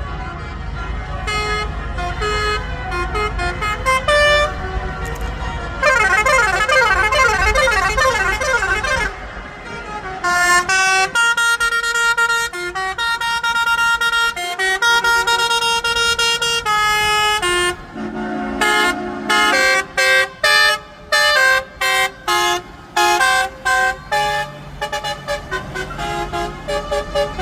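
Truck musical air horns playing tunes note by note, with a warbling passage partway through and, near the end, a run of short separate toots about two a second. A low engine rumble sits underneath in the first few seconds.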